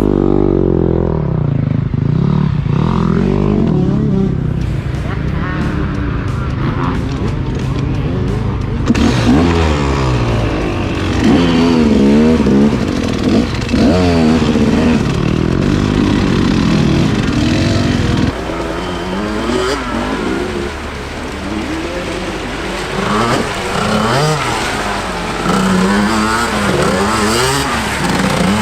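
Off-road vehicle engines, dirt bikes or ATVs, revving up and down again and again, with the sound changing abruptly about nine seconds in and again past the middle.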